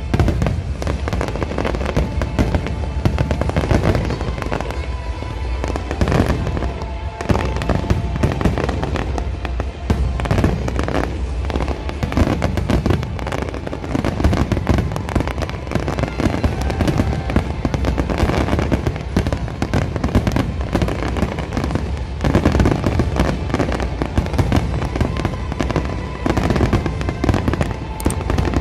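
Big aerial fireworks display: many shells bursting in quick succession, a continuous dense crackling and popping with frequent heavier bangs, and music underneath.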